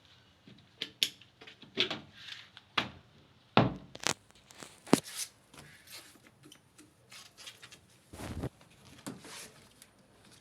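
Irregular knocks, clicks and scrapes of things being handled, a dozen or so separate strokes with the loudest around the middle.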